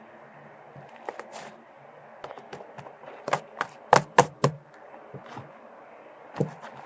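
Slime being handled, giving irregular sharp sticky clicks and pops, with the loudest coming in a quick cluster about halfway through.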